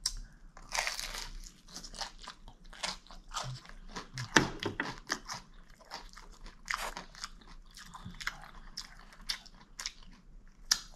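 A person chewing and biting crisp fried food with the mouth close to the microphone: irregular crunches throughout, the loudest about four and a half seconds in.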